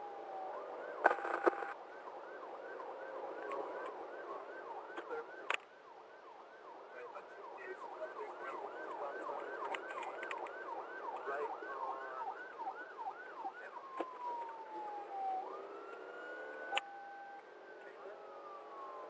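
Police car siren in its fast yelp mode, about three sweeps a second, changing to a slow rising and falling wail about fourteen seconds in. A few sharp clicks sound about a second in and again at about five seconds.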